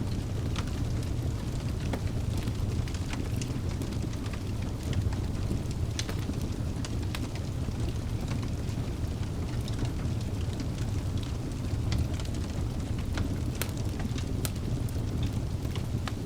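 Wood fire burning in a fireplace: a steady low rumble of flames with scattered sharp crackles and pops from the logs, several each second at times.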